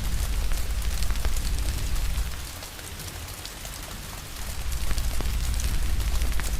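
Steady rain hiss with scattered sharp crackles and pops of a wood fire. A deep low rumble underneath drops away for about two seconds in the middle, then returns.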